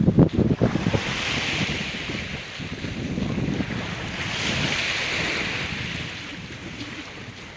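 Sea waves washing in on a rocky beach, two hissing surges one after the other. Wind buffets the microphone with low rumbles in the first second.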